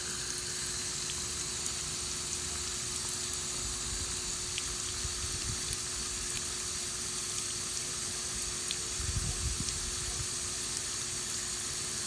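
Water rushing steadily out of a garden hose with the supply valve opened wide, a continuous hiss.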